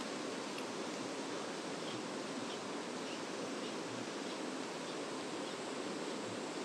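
Mountain stream water rushing over rocks, a steady even rush with no breaks.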